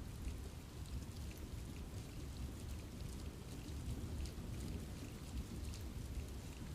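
Steady rain falling on forest trees: many separate drops ticking over a continuous hiss, with a low rumble underneath.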